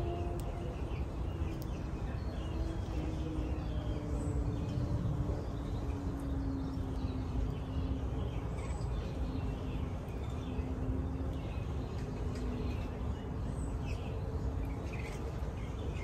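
Backyard birds chirping here and there over a steady low background rumble with a faint, slowly wavering hum.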